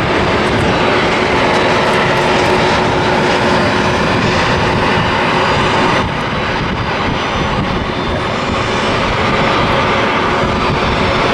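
Spirit Airlines Airbus A320-family jet airliner passing close by on its landing approach: a loud, steady jet engine noise with a held whine, easing a little about six seconds in.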